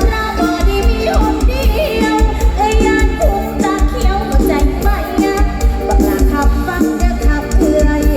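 Isan mor lam band music: singing over a steady, heavy bass beat with rattling percussion.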